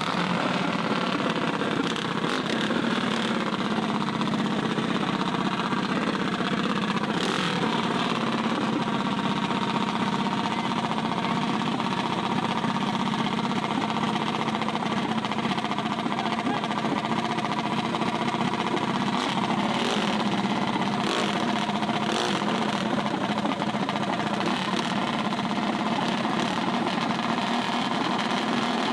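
Small mini bike engine idling steadily at an even pitch, with a few brief clicks.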